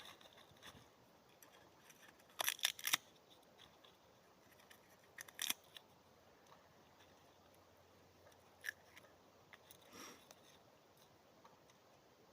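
Dry sticks and birch bark being handled and snapped, giving short sharp cracks: a quick cluster of them about two and a half seconds in, another about halfway through, then two single cracks later.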